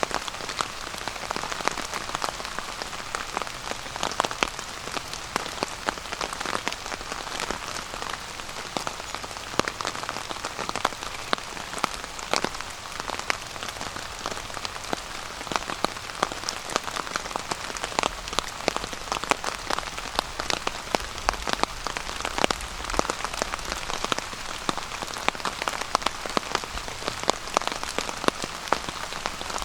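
Steady rain falling on a tarp overhead, a constant hiss dotted with many sharp individual drop taps.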